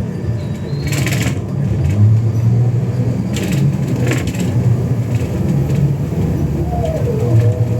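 Scania K320UA city bus running with a steady low drone, broken by several sharp clunks, about a second in and again around three and four seconds: an abnormal clunking that points to a fault on the bus.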